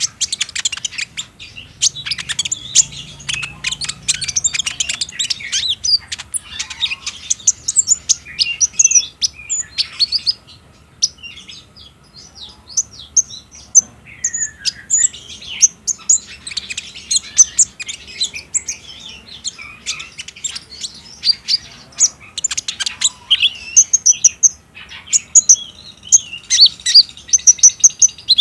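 Van Hasselt's sunbird (kolibri ninja) singing a long, rapid 'trotol' song of high, quick chirps and trills, with a couple of brief lulls, the kind of song played to set caged konin singing.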